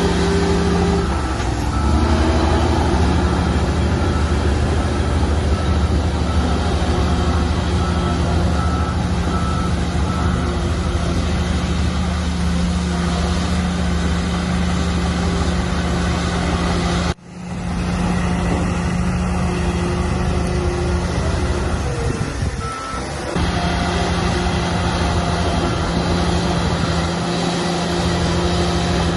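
Shantui bulldozer's diesel engine running steadily, with a repeating beep over the first third. The sound cuts out briefly and abruptly a little past the middle, then comes straight back.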